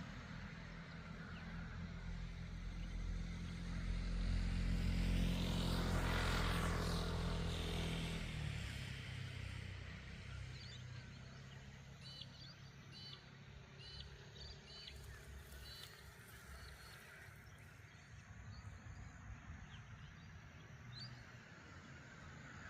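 A motor vehicle drives past, growing louder to its peak around five to eight seconds in, with its engine note dropping in pitch as it goes by and then fading. Afterwards a bird gives short, repeated high chirps.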